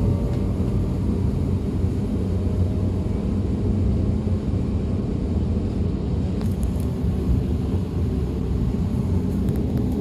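DB Class 425 electric multiple unit running, heard on board: a steady low rumble of wheels and running gear, with a faint falling electric whine that fades in the first moments.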